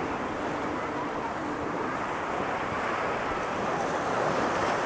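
Ocean surf breaking and washing up a sand beach: a steady rush of water that swells slightly near the end, with wind buffeting the microphone.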